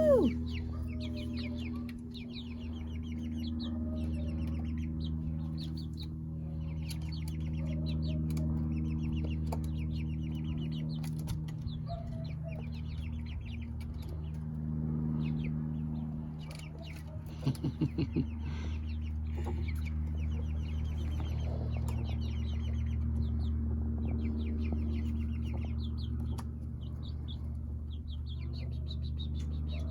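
Young chickens peeping and clucking in a run, many short high calls over a steady low hum, with a quick cluster of louder sharp sounds a little past halfway.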